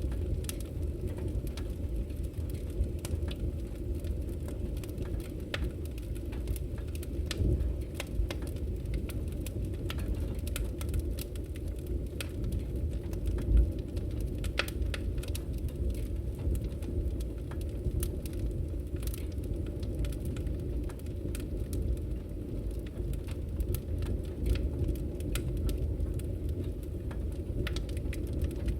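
Firewood burning in a camping wood stove: a steady low rushing of the fire with irregular crackles and pops, one louder pop about halfway through.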